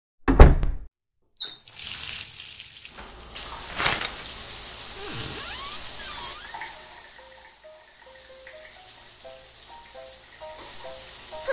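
A heavy thump, then a steady hiss like running water, then light music with a plucked, stepping melody from about six seconds in.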